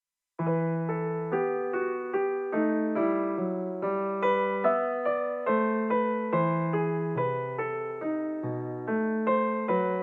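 Background piano music, a calm run of struck notes that starts suddenly about half a second in.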